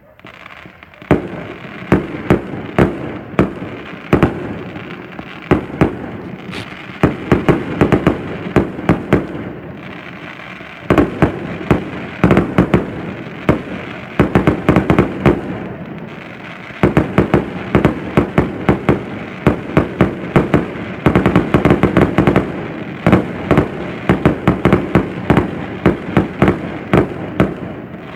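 Fireworks display: a rapid string of explosive bangs, several a second, coming in waves with short lulls about ten and sixteen seconds in.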